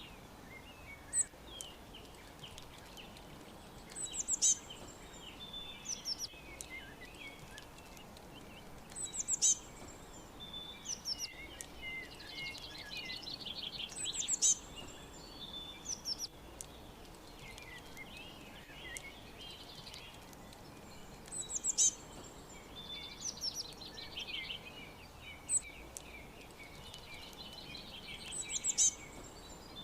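Several songbirds chirping and trilling, with a loud, sharp high-pitched call recurring about every five seconds over a faint steady background hiss.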